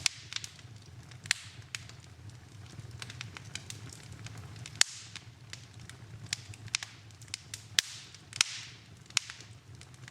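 Wood fire in a fireplace crackling, with sharp pops at irregular intervals and two short hisses, about halfway through and near the end, over a steady low rumble.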